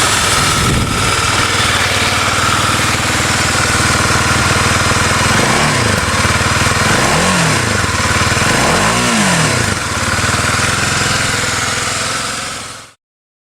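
An engine running, revved up and back down three times, the rises getting longer each time; the sound stops abruptly near the end.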